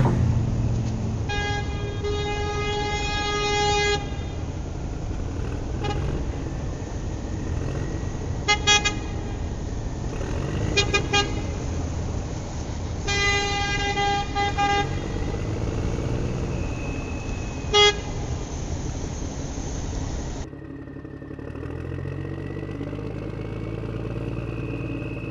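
A truck engine running with its horn honking repeatedly: a long honk early, short toots around the middle, another long honk and a brief one later. The engine sound drops to a quieter rumble a few seconds before the end.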